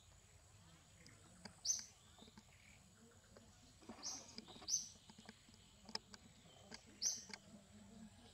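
A bird calling: four short, high chirps spaced a second or more apart over faint outdoor background, with a few soft clicks.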